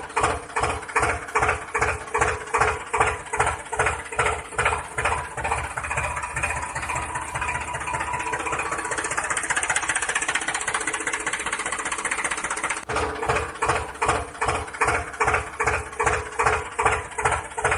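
Tractor-style engine running with a regular chugging beat, about two to three beats a second. It steadies into a smoother run in the middle, then goes back to chugging.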